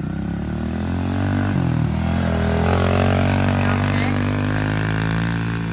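Motorcycle engine running close by; its pitch dips briefly about a second and a half in, then rises a little and holds steady.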